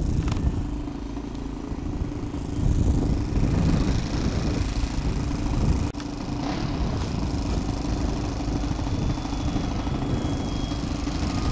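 Electric RC model airplane's brushless outrunner motor and propeller running steadily in flight, with wind buffeting the microphone.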